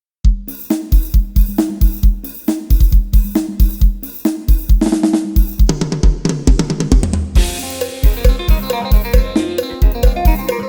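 Addictive Drums 2 virtual drum kit playing a steady kick-and-snare beat, then a fast fill that builds to a crash about seven seconds in, where pitched band instruments join the groove.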